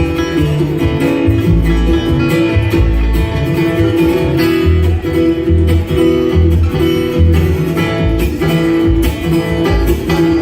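Bluegrass band playing live, led by acoustic guitar, with a regular pattern of low bass notes underneath.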